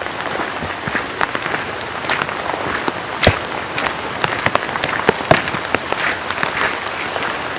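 Steady rain, with large drops hitting a surface irregularly; one sharp hit about three seconds in is the loudest.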